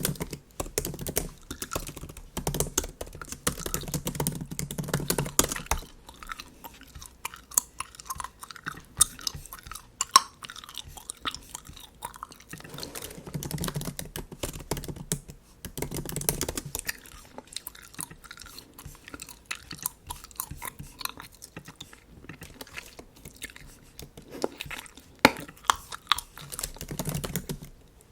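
Bubble gum chewed close to the microphone in bursts of wet, smacking chews. In the gaps come lighter, sparser clicks of MacBook keyboard typing.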